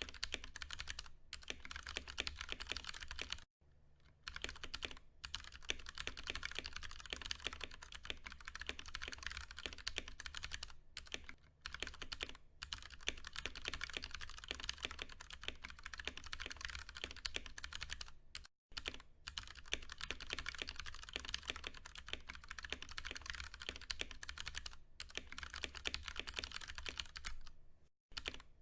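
Steady fast typing on a Ducky One 2 Mini mechanical keyboard with tactile Cherry MX Brown switches: a dense run of key clacks. It breaks off briefly about three and a half seconds in, again after about eighteen seconds, and just before the end.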